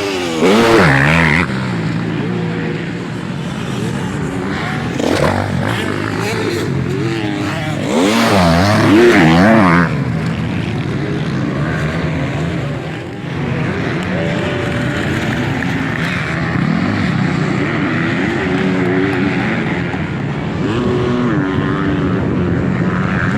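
Motocross bikes racing on the track, several engines revving high and dropping through the gears at once. Two bikes pass loudly, about a second in and again around eight to ten seconds in, while others keep running further off.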